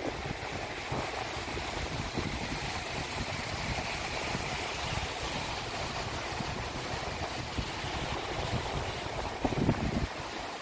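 Sea waves washing on the shore with wind buffeting the microphone in a steady rumbling noise; a stronger gust hits the microphone near the end.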